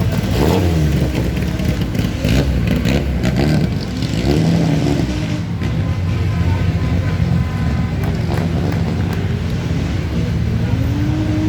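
Race car engine revving hard as it accelerates up the hill, the pitch climbing and dropping through gear changes, then a steadier engine note that rises again near the end.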